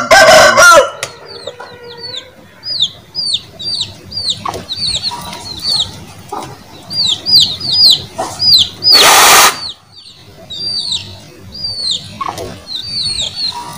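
Birds peeping over and over, each peep a short, high, falling note, with a loud burst at the very start and a short loud hiss about nine seconds in.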